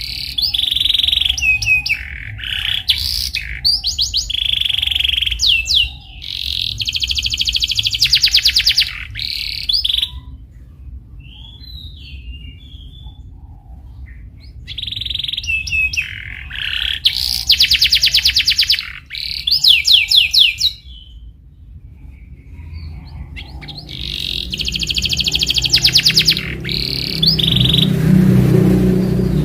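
Domestic canary singing in bursts of fast rolling trills and quick sweeping chirps, with two pauses of a few seconds, about ten seconds in and again about twenty-one seconds in. Near the end a low hum comes in under the song.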